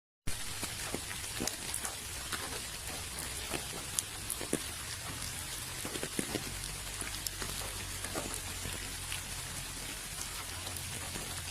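Steady rain falling, an even hiss with scattered individual drops ticking on a surface. The sound drops out completely for a moment at the very start.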